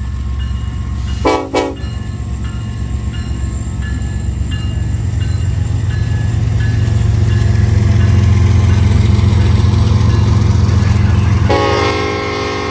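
Diesel locomotives of a freight train working under power, their low engine drone growing louder. Two short horn blasts come about a second in, and a long multi-note air-horn blast starts near the end.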